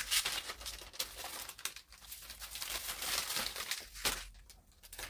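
Plastic packaging crinkling and tearing as a haul item is unwrapped by hand, easing off about four seconds in.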